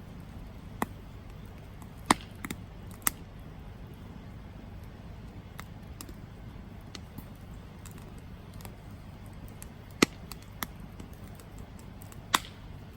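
Campfire crackling: a steady low rumble and hiss of the flames, with a handful of sharp pops spread through and fainter ticks in between.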